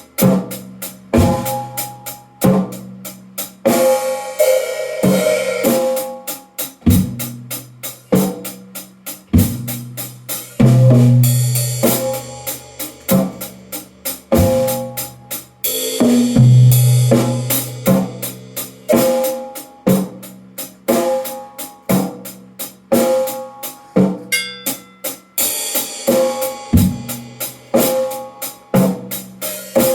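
Drum kit played freely, without a steady groove: dense strokes on low-pitched drums that ring between hits, bass drum and snare, with stretches of sustained cymbal wash.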